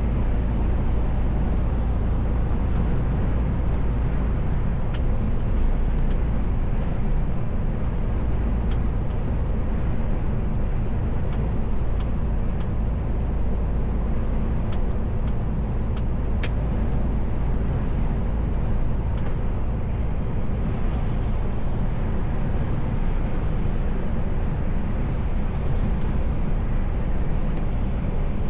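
A Mercedes-Benz Actros L truck on the move, heard from inside the cab: a steady low engine drone with road noise, and a few faint clicks.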